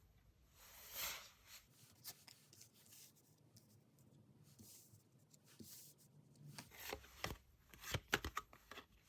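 Tarot cards being handled and shuffled: a soft swish about a second in, light rustling and taps, then a quick run of card clicks and snaps near the end.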